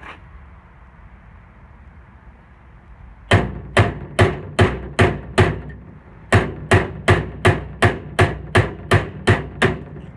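Hammer blows on a steel punch driving out the rivets that hold a worn ring gear on a Briggs & Stratton flywheel. After about three seconds without strikes, a quick run of about six sharp metallic blows, a short pause, then about ten more at roughly two and a half a second.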